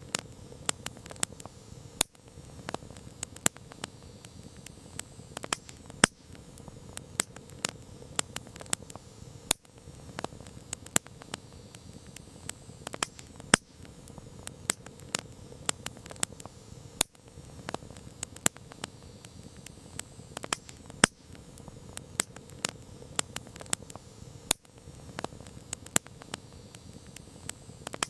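Campfire crackling: irregular sharp pops and snaps of burning wood, several a second with an occasional louder crack, over a steady soft hiss of the flames.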